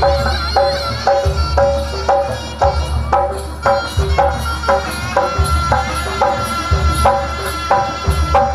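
Instrumental Javanese jaranan gamelan music. Metal keyed percussion is struck in a steady pulse of about three notes a second over deep hand-drum beats.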